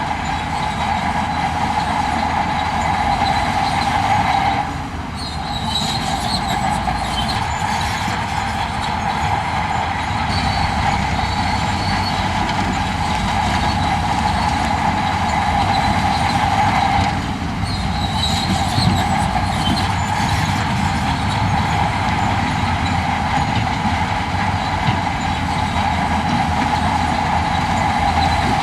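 Heavy diesel earthmoving machinery working: a low engine rumble under a steady high whine, which drops out briefly twice.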